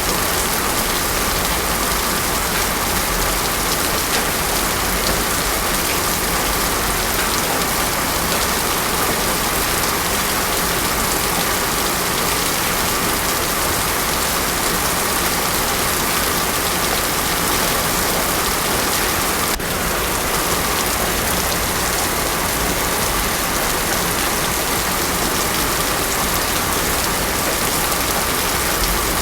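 Heavy rain falling steadily on a road, an even hiss of rain with no thunder.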